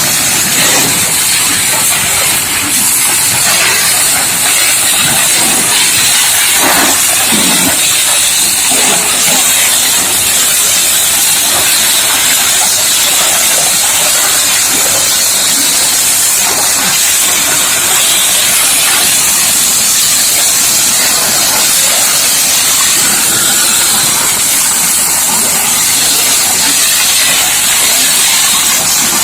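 High-pressure water jet from a booster pump washing down a dump truck: a loud, steady spray hiss.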